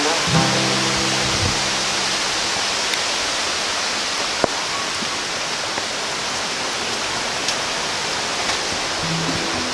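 Steady rushing of a fast mountain creek flowing over rocks, with background music faintly under it at the start and again near the end.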